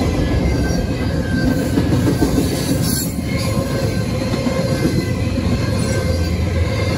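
Double-stack intermodal container well cars rolling past at close range: a steady, loud rumble and clatter of steel wheels on rail.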